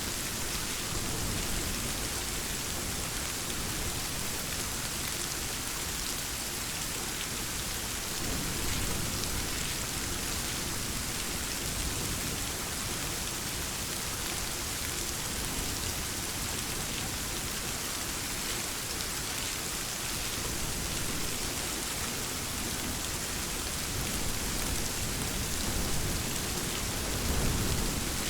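Steady, heavy rainfall: a dense, even hiss of drops hitting surfaces.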